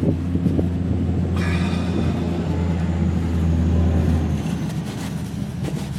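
Low, steady engine hum, like a motor vehicle running nearby, growing louder toward the middle and easing off near the end.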